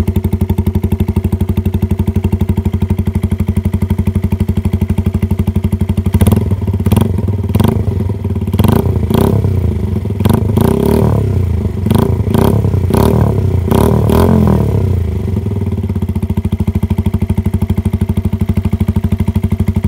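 125 cc motorcycle engine through a dual sports exhaust, idling with a fast, even beat, then revved in a string of short throttle blips from about six seconds in, each rising and falling in pitch, before settling back to idle about fifteen seconds in.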